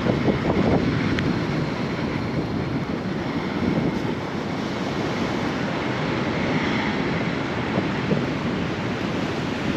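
Ocean surf washing steadily onto the beach, mixed with wind buffeting the microphone.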